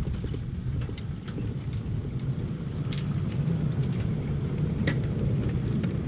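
A 7¼-inch gauge miniature train rolling slowly along the track: a steady low rumble with scattered sharp clicks.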